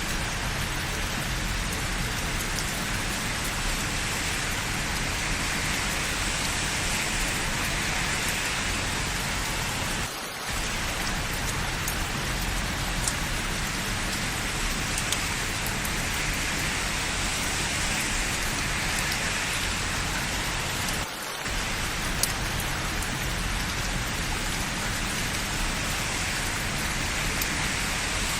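Steady rain falling on hard surfaces, an even hiss with scattered small drop ticks. The sound briefly dips twice, about 10 and 21 seconds in.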